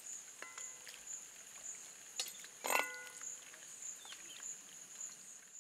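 Steel ladle stirring mutton in a steel kadai, clinking against the pan twice with a brief metallic ring, about half a second in and again near the middle. Under it, a steady high insect drone of crickets.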